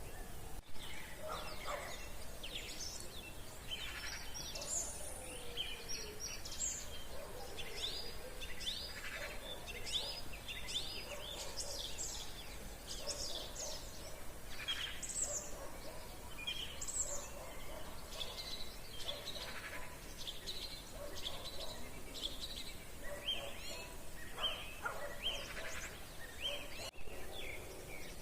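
Evening chorus of many songbirds singing at once: dense, overlapping chirps and trills with no break, some lower calls underneath.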